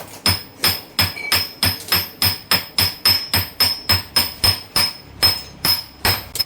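Steady hammer blows on steel, about three a second, each with a high metallic ring: the pinion's propeller-shaft flange being driven onto the splined pinion shaft of a truck differential.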